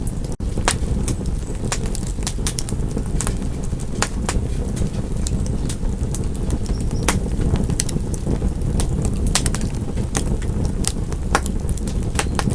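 Wood fire crackling: a steady low rumble of burning with frequent, irregular sharp pops and snaps. The sound drops out for an instant just after the start.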